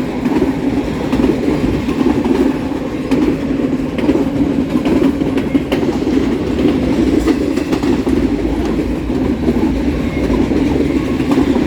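Freight train of intermodal well cars rolling past close by: a steady, loud rumble of wheels on rail with scattered clicks of wheels over rail joints.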